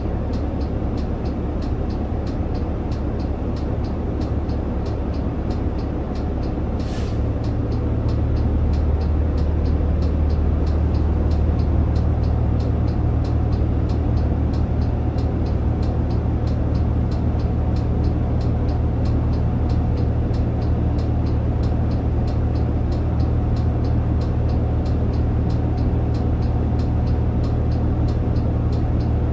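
Interior running sound of a Shin-Joban Kotsu route bus under way: a steady low engine and road drone in the cabin that steps up louder about seven seconds in, just after a short hiss.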